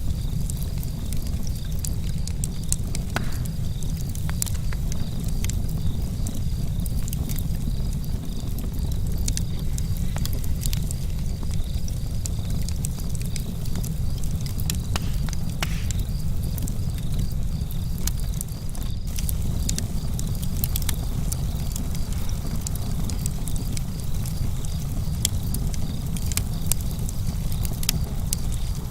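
Campfire crackling: wood burning with frequent sharp pops and snaps over a steady low rumble.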